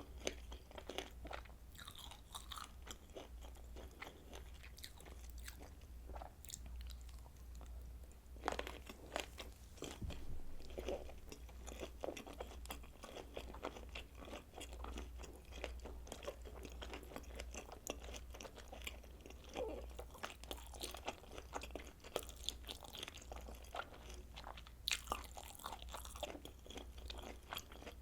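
Close-miked chewing and biting of kielbasa sausage: many small crisp clicks and snaps throughout, over a steady low hum.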